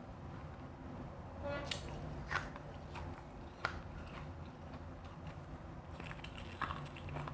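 Refrozen crushed ice being bitten and chewed close to the microphone: a few sharp, separate crunches, over a low steady hum.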